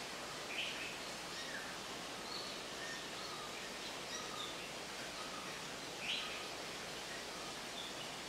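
Steady hiss of background noise, with short high bird chirps scattered through it, the two loudest about half a second in and about six seconds in.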